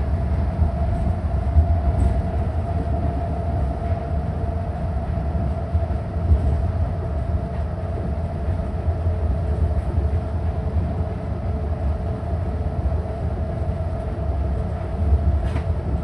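Nippori-Toneri Liner rubber-tyred automated guideway train running along its elevated track, heard from inside the car: a steady low rumble with a constant hum.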